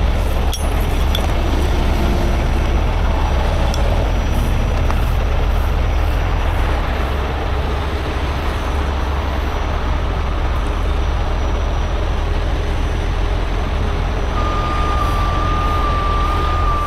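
Heavy-duty tow truck diesel engines running steadily, a loud low rumble over general roadside noise. Near the end a steady high-pitched whine starts up and holds.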